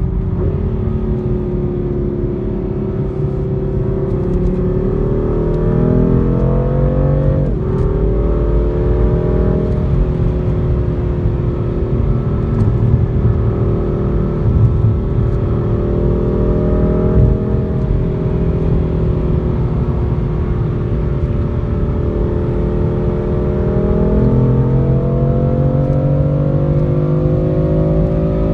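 Car engine pulling under steady acceleration, its pitch climbing slowly. About a quarter of the way in it drops sharply with an upshift, then holds and climbs again near the end.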